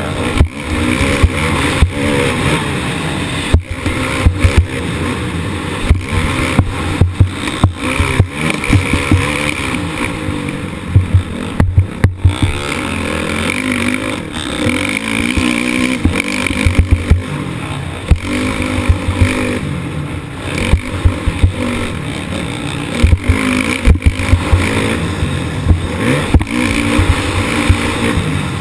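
Motocross bike engine heard from the onboard camera, revving up and down as the rider works the throttle and gears around the track. Frequent sharp knocks and thumps of the bike over the terrain are picked up along with it.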